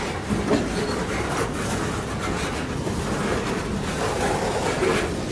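Freight boxcars rolling past close by: steel wheels running on the rails in a steady rumble, with a few scattered knocks.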